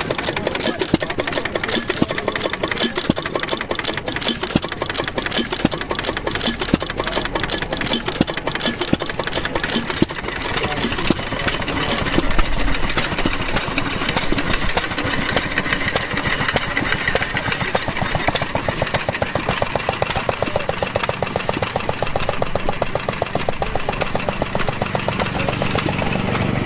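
Antique gas engine running with a rapid, even exhaust beat. The sound changes character about ten seconds in.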